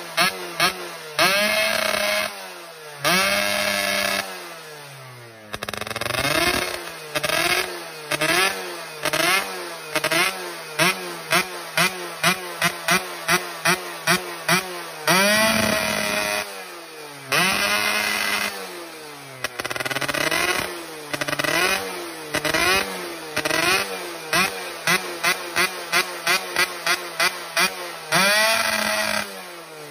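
Yamaha F1ZR two-stroke underbone motorcycle with a KEN2 racing exhaust, revved over and over. Mostly quick throttle blips at about two a second, broken by a few longer revs that climb and fall back.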